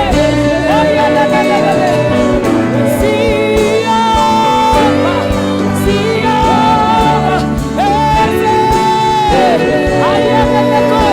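Gospel worship song: a singer holds long, wavering notes over a band's sustained chords and a steady beat.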